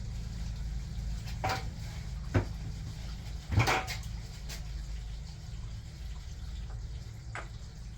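A few short clicks and knocks from handling engine parts and tools, the loudest about two and a half and three and a half seconds in, over a steady low hum.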